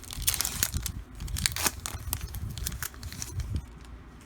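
A foil trading-card pack wrapper being torn open and crinkled: a quick run of sharp crackles and rustles over the first couple of seconds, then lighter, scattered handling noise.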